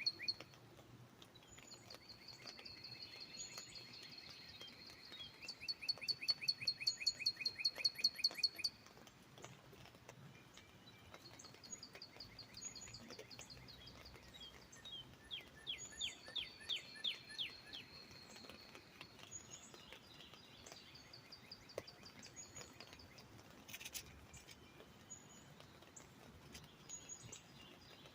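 Songbirds singing, among them northern cardinals: long rapid trills of repeated notes, a run of quick down-slurred whistles midway, and scattered short high chips. Beneath them is a faint steady background hiss.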